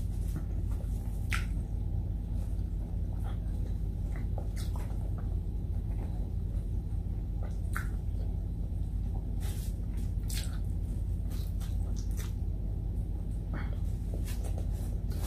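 Close-miked chewing and mouth clicks from someone eating by hand, with scattered short wet ticks and light crinkles of a plastic sheet, over a steady low hum.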